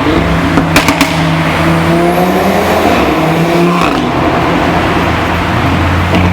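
Audi RS3 Sportback's turbocharged 2.5-litre five-cylinder engine accelerating hard, with a few sharp exhaust cracks about a second in. Its pitch rises for about three and a half seconds, then drops and settles into a lower, steadier note.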